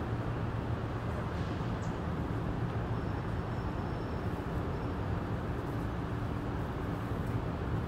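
A steady low engine hum, with a faint thin high tone for about two seconds in the middle.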